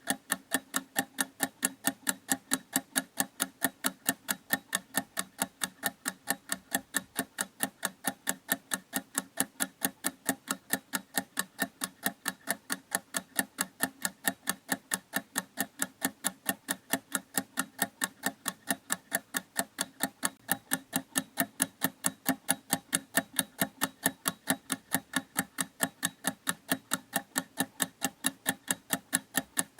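Clock ticking steadily: sharp, evenly spaced ticks at a fast, unchanging rhythm.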